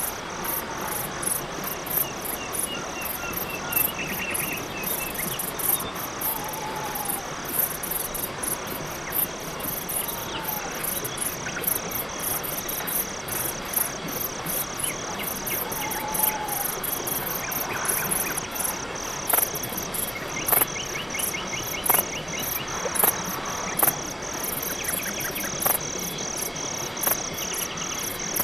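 Night chorus of crickets chirping in a steady, rapid, even pulse, with scattered short chirps, brief falling calls and ticks from other night animals.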